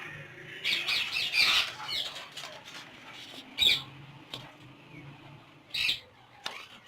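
Indian ringneck parakeets squawking: a burst of harsh calls about a second in, then single loud screeches near four and six seconds.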